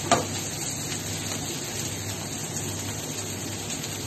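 Kangkong and mushroom slices sizzling steadily in a hot frying pan, with one short sharp sound at the very start.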